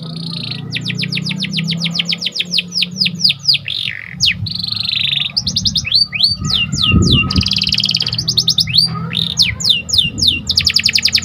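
Domestic canary singing a long song. It alternates fast trills of down-sweeping notes, about ten a second, with buzzy rolling phrases.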